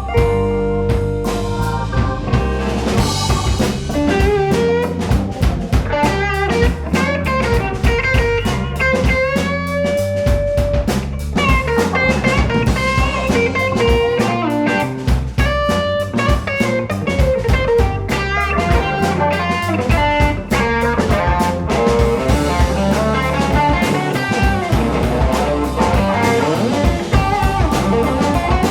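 Blues band playing an instrumental break: a lead guitar solo with bending notes over drum kit and bass.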